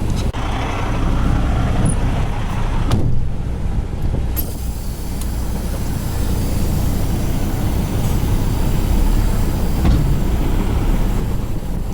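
Semi truck's diesel engine running, a steady low rumble.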